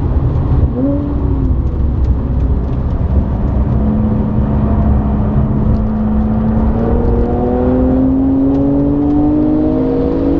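Interior sound of a tuned Audi B8 S4's supercharged 3.0-litre V6 with a non-resonated Milltek exhaust, driven hard on track. The engine note dips and comes back about a second in, then pulls steadily with its pitch climbing slowly, over heavy low road and tyre rumble.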